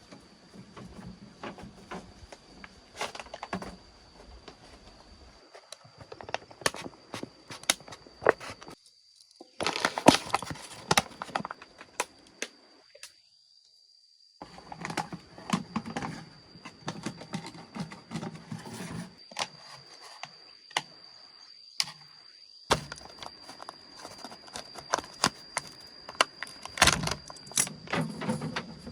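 Irregular clicks, knocks and clinks of objects being handled, over a faint steady high-pitched tone, with a few abrupt cuts to silence.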